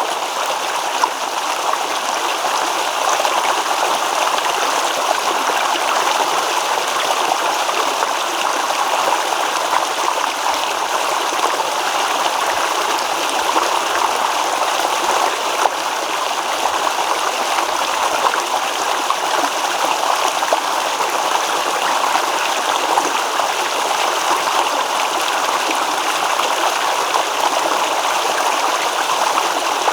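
Shallow stream babbling and trickling steadily over stones, with constant splashing and gurgling water.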